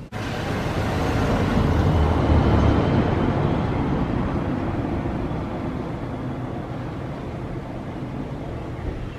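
Wakayama Electric Railway 'Umeboshi Densha' electric train moving past the platform: a steady rumble and running noise, loudest about two seconds in, then easing off.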